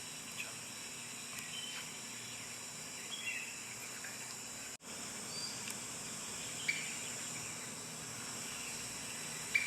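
Outdoor ambience: a steady, high-pitched insect chorus with short, sharp bird chirps every second or two. The sound drops out for an instant a little before halfway.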